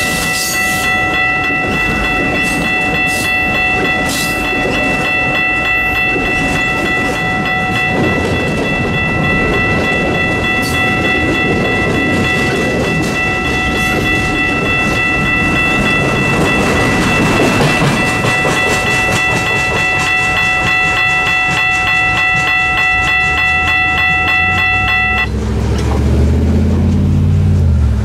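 Freight train cars rolling past with clickety-clack, over a steady high ringing tone of several pitches that holds unbroken. Both cut off suddenly about 25 seconds in and give way to a low rumble.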